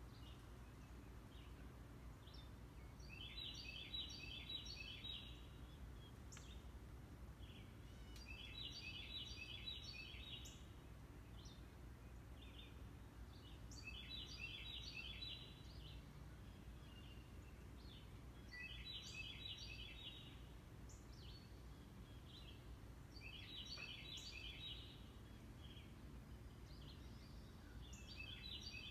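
A songbird singing faintly, repeating a short phrase of quick high notes about every five seconds, over a low steady rumble.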